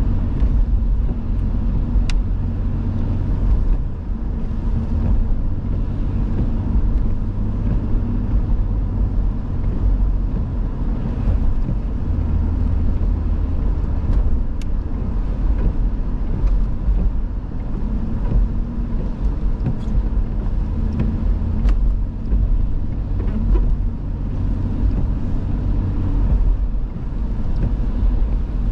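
Car driving, heard from inside: a steady low rumble of engine and road noise, with the engine's hum shifting slightly in pitch.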